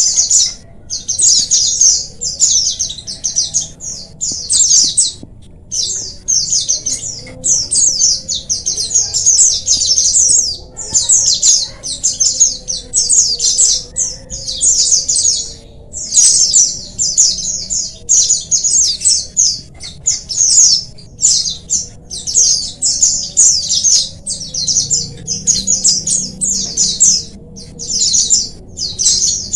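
A flock of white-eyes (pleci) twittering together in fast, high chattering phrases of about a second each, with only short breaks between them.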